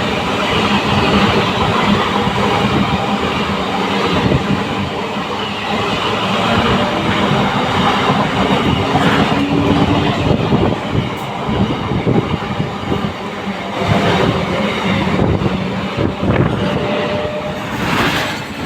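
Train running on rails: a steady low hum with repeated knocks from the wheels throughout.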